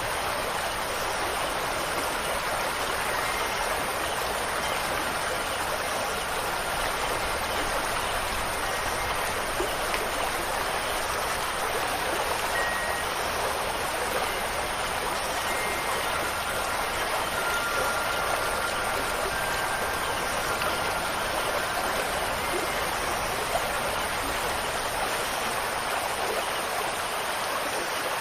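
Steady, even hiss of rain and running water, with faint short high tones now and then.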